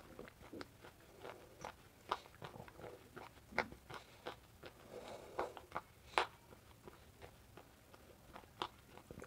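Close-up chewing of crunchy baked clay pieces: irregular sharp crunches and clicks, a few a second, the loudest about six seconds in.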